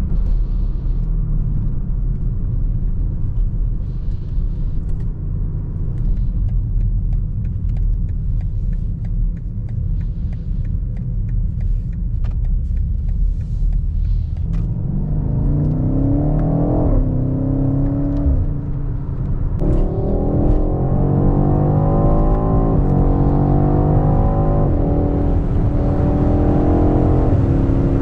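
BMW X5 M (F95) twin-turbo V8 and road rumble while cruising. About halfway through, the engine note starts climbing in pitch under hard acceleration, dropping back at each upshift and climbing again through the gears.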